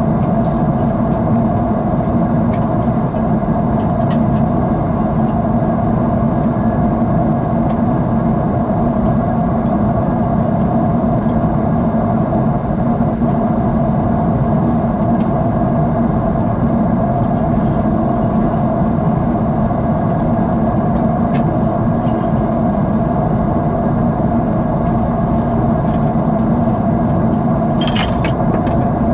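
Steady jet airliner cabin noise: the even drone of the engines and rushing air heard from inside the passenger cabin. A brief click sounds near the end.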